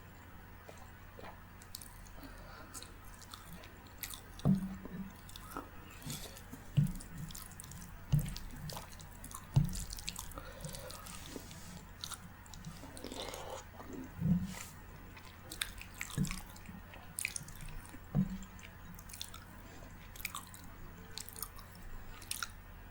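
Close-miked chewing of soft rice and curry: wet mouth clicks and smacks throughout, with a few louder low knocks.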